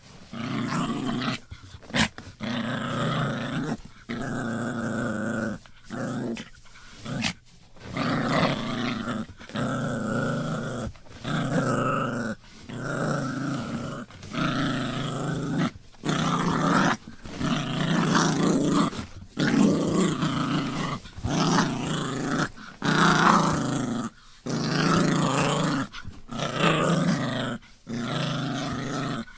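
Dog growling in a long series of rough growls, each about a second long, broken by short pauses.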